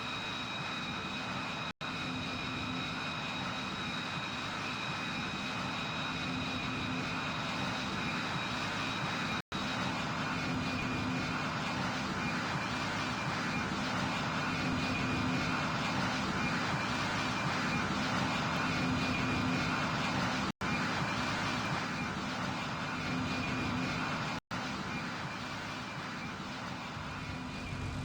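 Airplane engines running steadily with a whine over the noise, growing louder toward the middle and easing off near the end, as of an aircraft passing. The sound cuts out for an instant four times.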